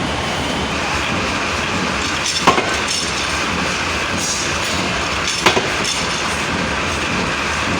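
Workshop machinery running steadily, with two sharp knocks about three seconds apart.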